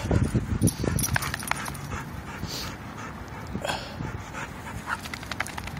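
Two dogs play-fighting, with a puppy tugging at the other dog's collar: panting, with scuffling and many short sharp ticks throughout.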